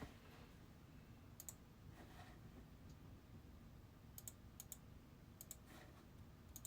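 Near silence: low room hum with a few faint, sharp clicks, most of them quick doubles, once early and then several more in the second half.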